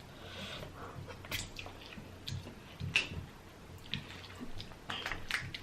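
A person eating close to the microphone: soft chewing with scattered short wet clicks and smacks, a few a second apart, from a mouthful of saucy seafood.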